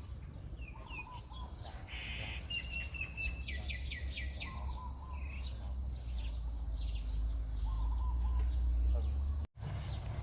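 Birds chirping and trilling over the steady low rumble of heavy earthmoving machinery, with the engine rumble swelling slightly toward the end. The sound cuts out for a moment near the end.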